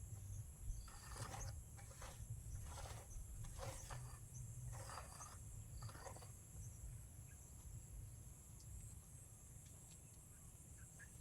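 Insects, such as crickets, chirring steadily at a high pitch, with a run of short noisy sounds about a second apart in the first half, likely from handwork nearby.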